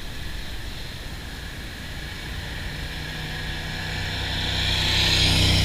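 Aprilia Tuareg 660's parallel-twin engine running at a steady pitch while riding. A rushing wind and road noise swells during the second half and peaks near the end.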